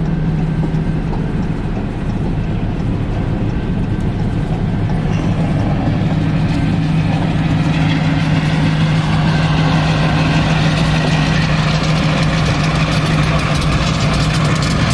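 Diesel locomotives running with a steady low engine drone as they back a train, with a growing hiss of wheel and rail noise from about six seconds in.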